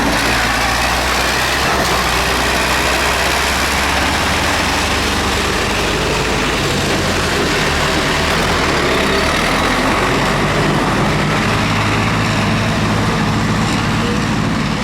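Tractor engines running. Their low hum shifts in pitch and changes over the stretch as the machines move about.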